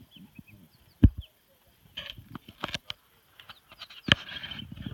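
Small birds chirping in short high calls, with two sharp knocks, one about a second in and a louder one near the end, and some rustling between them.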